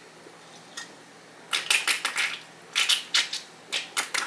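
Dishes and cutlery being handled, clinking and clattering in three quick clusters beginning about a second and a half in.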